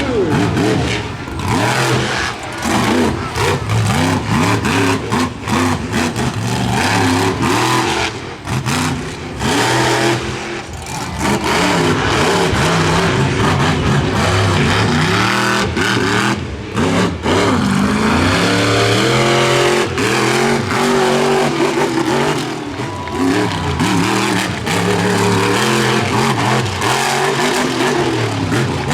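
Monster truck engine revving hard, its pitch rising and falling as the throttle is worked on and off, with short lifts where the sound dips.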